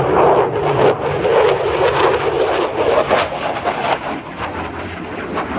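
Loud aircraft engine noise from a display plane flying past, with irregular sharp crackles through it.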